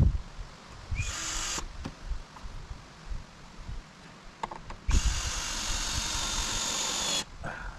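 Power drill driving screws into wooden boards, in two runs: a short burst about a second in and a longer run of about two seconds past the middle. Light knocks of handling wood come between them.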